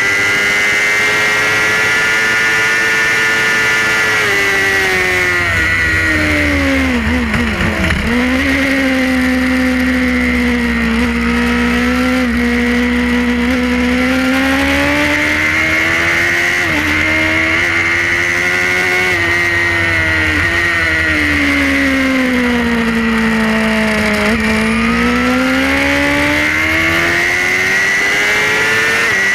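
Suzuki GSX-R racing motorcycle's inline-four engine at racing speed, heard from on board with wind rush. Its pitch drops steeply through a quick run of downshifts a few seconds in, climbs again through upshifts under hard acceleration, drops once more under braking about two-thirds of the way through, and rises again near the end.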